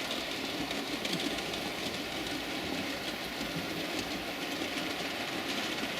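Model train running on the layout's track: a steady running sound of the locomotive and wheels on the rails, with faint ticks.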